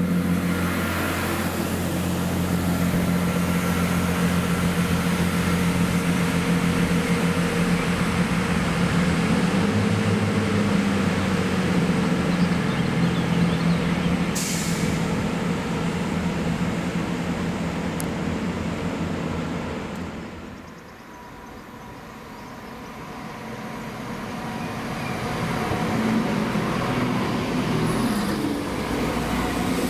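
Diesel multiple-unit trains at a station platform. A standing unit's engines run steadily with a low hum, with a short sharp hiss about fourteen seconds in. The sound fades around twenty seconds in, then builds again as another train runs in alongside.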